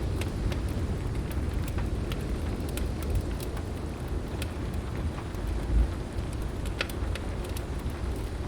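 Wood fire crackling with scattered sharp pops over a steady hiss of heavy rain and a low rumble of thunder. There is a low thump about six seconds in.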